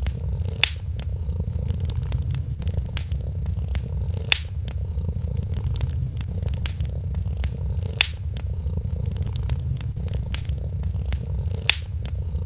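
A cat purring steadily under the crackle of a wood fire, with small clicks throughout and four louder pops spaced about every three to four seconds.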